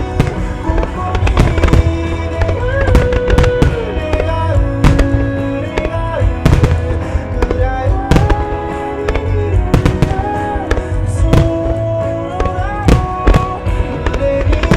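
Starmine firework display: many shells bursting in quick, irregular succession with sharp bangs, over loud accompanying music with a melody and a steady bass.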